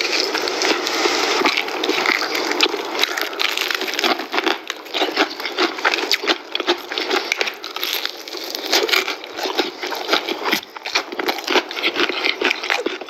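Close-up crunching and chewing of crispy KFC fried chicken, with many quick crackles from the fried breading.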